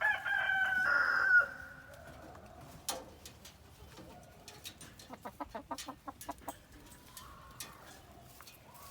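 Chickens calling: one loud, drawn-out call in the first second and a half, then quieter, with a quick run of short clucks about five seconds in and a soft call near the end.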